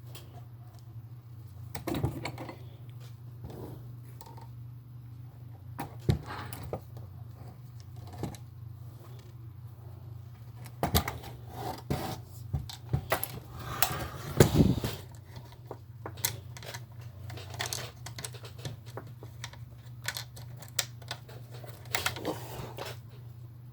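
Scattered small clicks, taps and rattles of remote-control toy car parts being handled and fitted together, with a few louder knocks, over a steady low hum.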